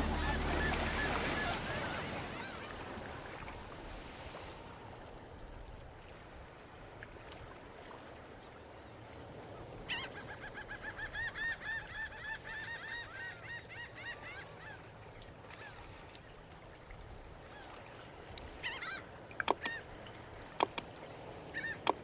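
Background music fading out over the first few seconds, then a goose honking in a fast run of repeated calls for about five seconds, with a few more calls and several sharp knocks near the end.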